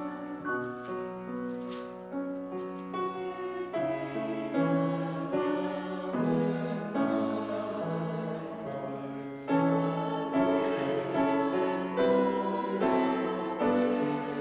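Slow instrumental church music, a keyboard playing held chords that change every second or so, growing louder about halfway through.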